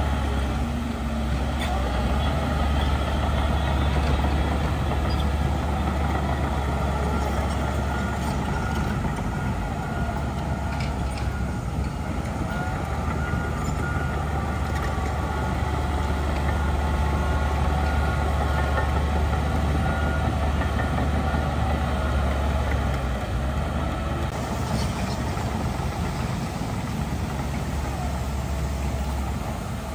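Heavy diesel engine of earthmoving machinery running steadily, with a deep, even drone.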